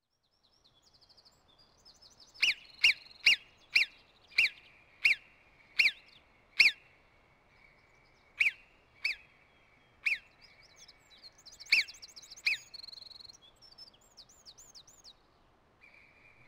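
Bird calling: about a dozen sharp, loud call notes that each drop quickly in pitch, repeated every half second to a second, with fainter quick chirps and trills around them.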